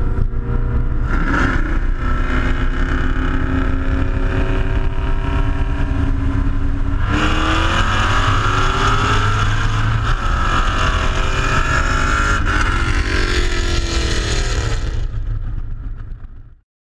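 Car engine under hard acceleration with rushing wind noise: steady at first, then suddenly louder about seven seconds in with its pitch climbing, rising again after a shift about twelve seconds in, before fading out near the end.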